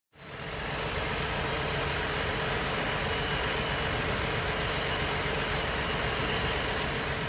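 2020 Ford Transit 250 van engine idling steadily, fading in at the start.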